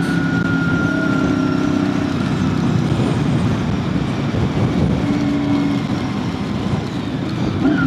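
2001 Honda VFR800FI Interceptor's V4 engine running at road speed, a steady engine note with a thin high whine, under a constant rush of wind noise.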